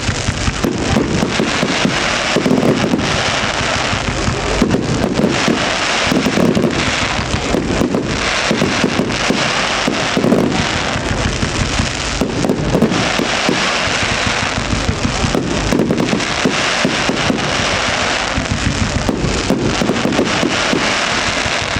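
Fireworks display: a dense, continuous barrage of bangs and crackling, with deeper booms every second or two.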